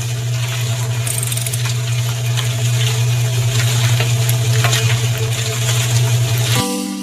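A small motor running steadily with a low hum and a busy rattling hiss over it, cutting off suddenly near the end.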